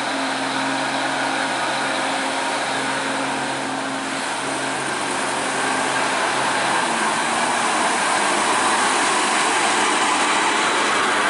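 Heavy truck engine running with road and traffic noise. Its low engine tone changes about seven seconds in, and the sound gets a little louder.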